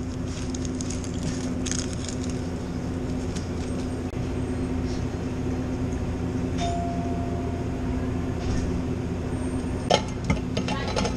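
Inside a Pontiac Firehawk's cabin while driving: the V8 engine and road noise drone steadily, with a few sharp clinks or rattles near the end.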